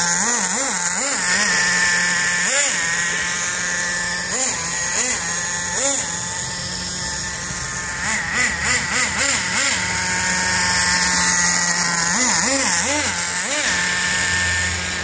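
Radio-controlled Vortex SS truck's motor whining, its pitch sweeping up and down again and again in quick bursts of throttle, over a steady hum.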